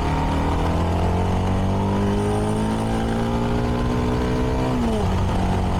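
CFMoto 300NK's single-cylinder engine on its stock exhaust, pulling under throttle with its pitch slowly rising, then dropping sharply about five seconds in.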